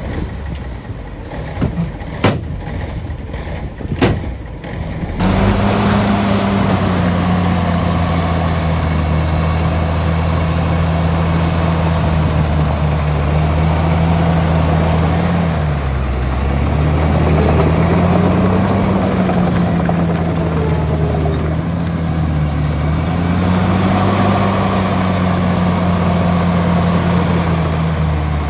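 Heavy diesel engine of construction machinery running, its pitch slowly rising and falling. In the first few seconds, before it comes in abruptly, there is a lower rumble with a few sharp knocks.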